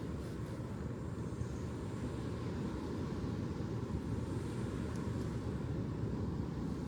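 Ocean surf: a steady, even low rumble.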